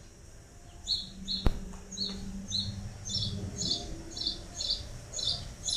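Small birds chirping, short high chirps repeating about twice a second and coming thicker after about three seconds, with one sharp click about a second and a half in.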